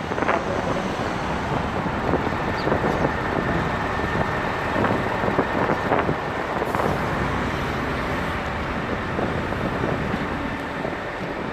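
Outdoor street noise: a steady rumble of road traffic, with scattered short knocks and clacks through it.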